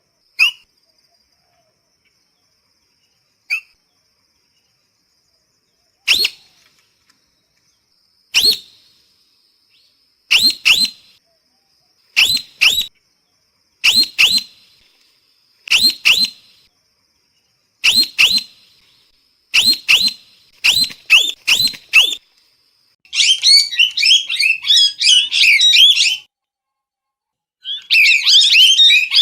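A parrot calling with short, sharp, down-slurred screeches. These come singly and several seconds apart at first, then in pairs about every two seconds, quickening, and break into a rapid run of chattering screeches twice near the end.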